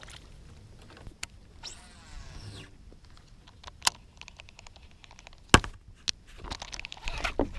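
Fishing reel and tackle handling: a short whir of the reel about two seconds in, a run of quick ticks, and one sharp knock about five and a half seconds in, with scattered clicks and rustling.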